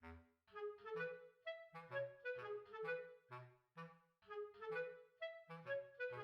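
Background music: a light, bouncy instrumental tune with a clarinet-like lead over a plucked bass, notes in a steady rhythm.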